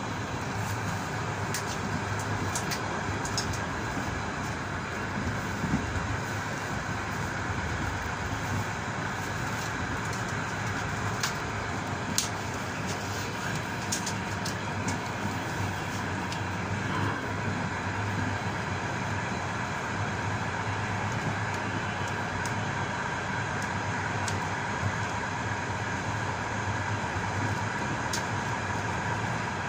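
A passenger train carriage running along the track, heard from inside the last car. The wheels on the rails make a steady rumble and hiss, with a few short sharp clicks scattered through.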